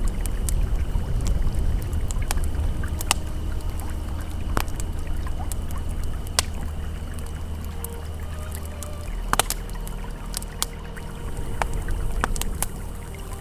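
Campfire crackling, with scattered sharp pops of burning wood, over the steady low rush of a flowing river.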